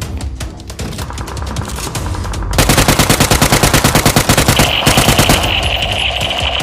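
Rapid automatic gunfire, a fast stream of shots that turns louder and denser, about ten a second, some two and a half seconds in; a steady high tone joins near the end.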